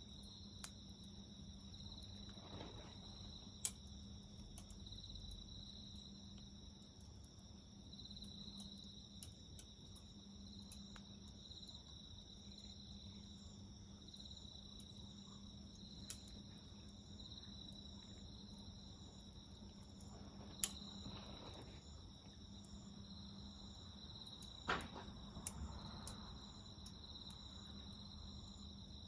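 Crickets chirping steadily in pulsing high trills over the faint pops and crackles of a wood fire, with a few sharper pops.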